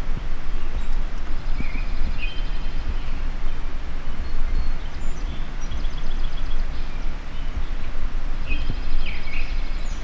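Small songbirds singing in short high phrases and quick trills, one about two seconds in and again near the end, over a steady low rumble.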